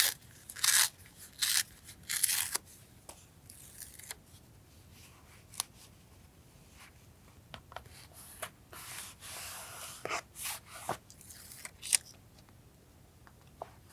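Scissors cutting paper in a run of short snips over the first two and a half seconds, then quieter paper handling with scattered sharp ticks and a longer rustle about nine seconds in.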